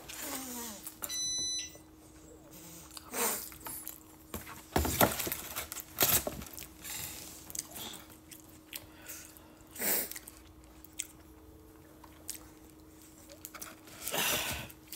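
Someone eating: chewing, with scattered clicks and knocks of a metal fork and a cardboard takeout box. A faint steady hum runs underneath.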